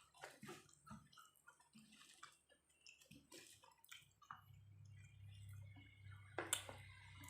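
Near silence with faint chewing and scattered mouth clicks and lip smacks of someone eating. A low steady hum comes in about halfway through.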